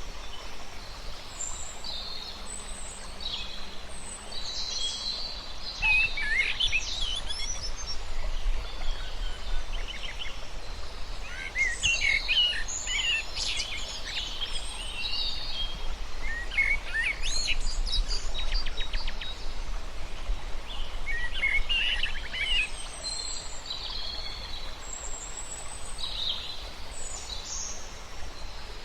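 Several songbirds singing and chirping, with overlapping short whistles, chirps and rapid trills, over a steady background hiss. The singing is busiest through the middle and thins out near the end.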